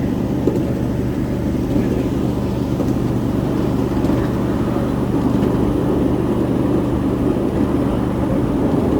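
A ride-on 7.5-inch gauge miniature train running along the track, heard from aboard: a steady low hum with a constant rumble that holds unchanged throughout.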